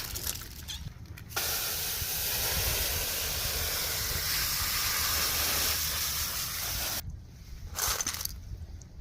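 Steady spray of running water, rinsing tumbled stones, starting about a second and a half in and cutting off about two seconds before the end. A brief clatter follows near the end.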